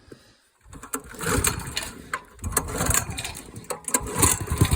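Small gasoline engine being cold-started: from about a second in it turns over and sputters unevenly, then catches into a steady running beat right at the end.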